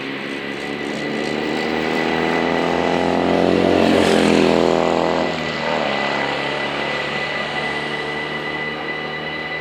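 VIRM double-deck electric train passing over a level crossing, loudest about four seconds in, its pitch dropping as it goes by. The crossing's warning bells ring steadily throughout.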